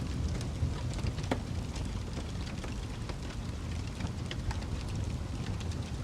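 Fire crackling: a steady low rumble of flames with frequent small sharp pops and snaps scattered irregularly throughout.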